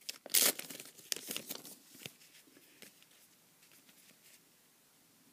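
Foil wrapper of a trading-card pack crinkling and tearing as it is opened, in a run of quick sharp rustles over the first two seconds, then only faint handling.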